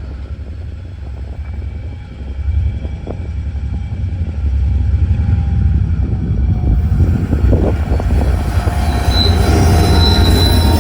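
A TasRail empty ore train passing, a heavy low rumble that grows louder from about two seconds in. From about seven seconds in, high-pitched metallic wheel squeal rings over it.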